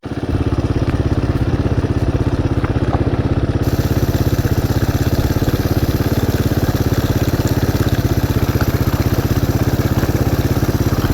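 Dirt bike engine idling steadily, with an even, fast pulsing beat.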